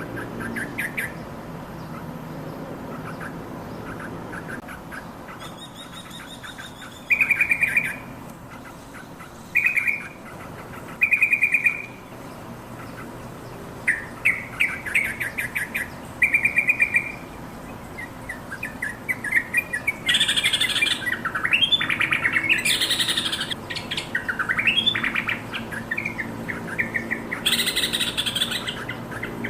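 Yellow-vented bulbul singing: short, rapid buzzy trills every second or two, then louder, bubbling, chattering song phrases from about two-thirds of the way in.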